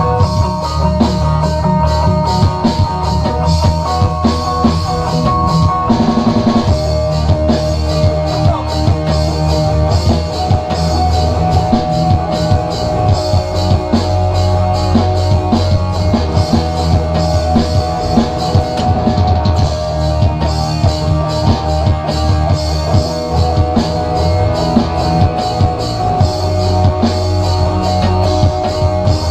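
A rock band playing live, led by a drum kit with guitar, the drums keeping a steady beat; the music changes about six seconds in.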